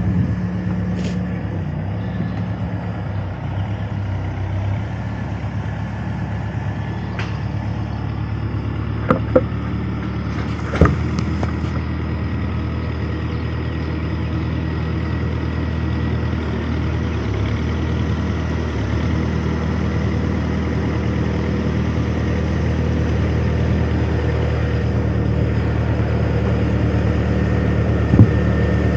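A vehicle engine running steadily at a low rumble, its pitch shifting a few times and growing slowly louder toward the end. A few sharp metallic clanks come about nine to eleven seconds in and again near the end.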